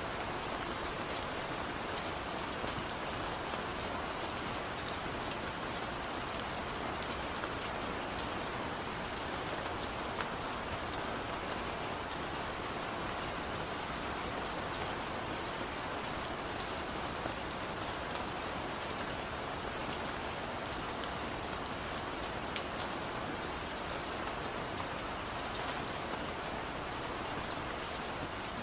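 Steady rain falling, a constant hiss with many separate drops ticking sharply through it.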